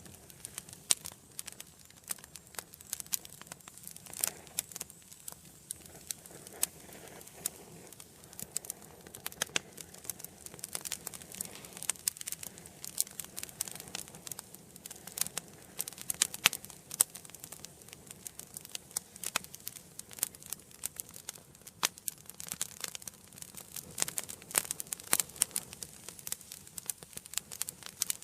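Wood fire burning in an indoor fireplace: a soft steady rush of flames under many irregular sharp crackles and pops from the burning logs.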